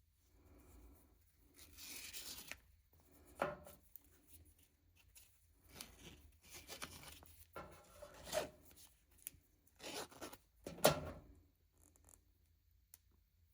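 Packaging being handled and opened by hand: wrapping rustling and tearing in short bursts, with a few sharp knocks, the loudest about three and a half and eleven seconds in.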